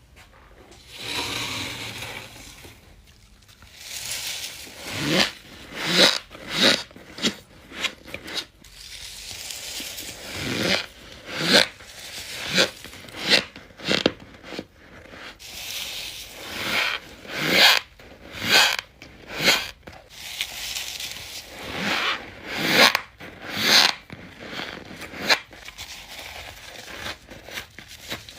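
Close-miked bites into humidifier freezer frost: a run of sharp, squeaky, scraping crunches, about one a second, as the frost chunks are bitten and crushed.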